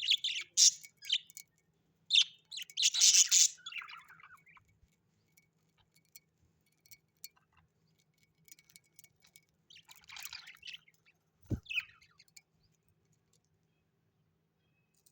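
Parrots chirping and chattering in three short bursts, with scattered light clicks and quiet stretches between.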